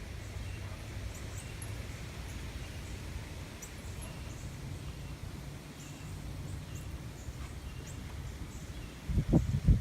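Outdoor ambience: low wind rumble on the microphone with faint, short bird chirps scattered through it. Near the end come a few loud, low thumps.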